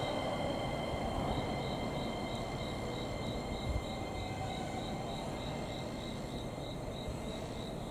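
E231 series commuter train pulling slowly into the platform and easing to a stop: a low rumble that gradually fades, with thin steady high-pitched whines over it and one soft thump about four seconds in.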